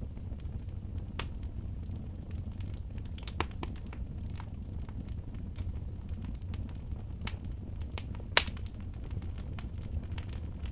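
Wood fire burning in a fireplace, crackling with scattered sharp pops over a steady low rumble; the loudest pop comes about eight seconds in.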